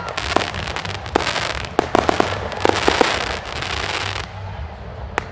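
Aerial fireworks going off: a quick string of sharp bangs over a dense hiss, which cuts off suddenly about four seconds in, with a few more bangs near the end.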